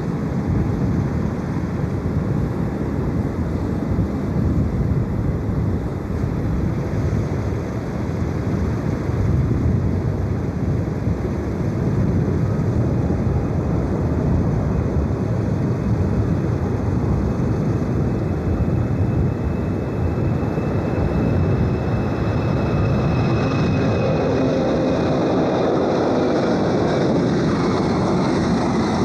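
Jet airliner engines running close by: a loud, steady rumble, with whining engine tones coming in over the last few seconds.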